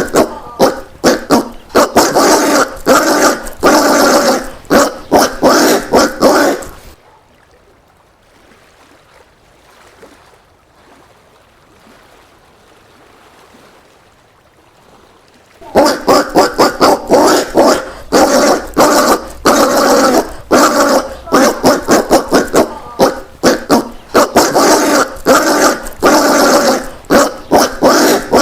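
Collared peccary (caititu) calling in a rapid run of short loud calls, several a second. The calls stop about seven seconds in and resume after a pause of about nine seconds.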